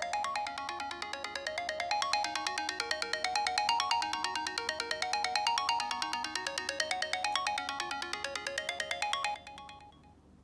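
An iOS 7 iPhone ringtone playing: a rapid run of bright, bell-like notes climbing and falling in repeated arpeggios. It fades out about nine seconds in.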